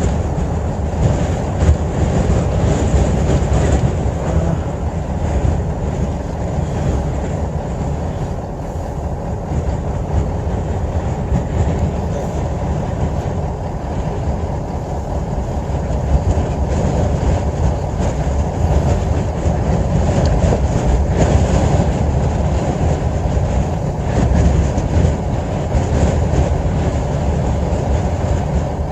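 Sandstorm wind blowing hard: a loud, steady low rumble.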